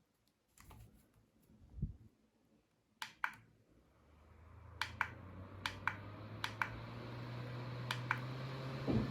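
Button clicks, then a mini USB fan's small motor starting up and running with a steady low hum and rushing air, building over a few seconds. Further pairs of sharp clicks come from its buttons being pressed while it runs.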